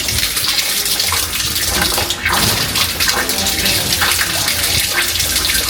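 Water pouring steadily out of an open, unstoppered pipe under a kitchen sink: a running leak with the water supply still on.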